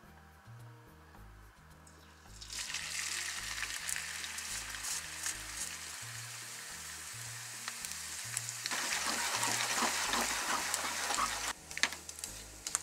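Small dried young sardines (jako) frying in oil in a frying pan on low to medium-low heat: the sizzling starts suddenly about two and a half seconds in as they go into the oil, and grows louder and fuller about two-thirds of the way through as they are stirred with chopsticks. A few sharp clicks near the end.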